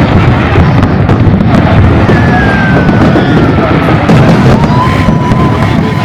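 Aerial fireworks going off in a dense barrage of booms and crackles. A thin whistle slides down in pitch about two seconds in, and another thin tone holds near the end.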